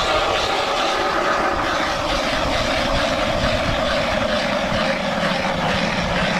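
Powered ice auger running steadily at high speed, drilling a hole through lake ice. Its motor tone drops slightly in pitch over the first few seconds as the bit cuts.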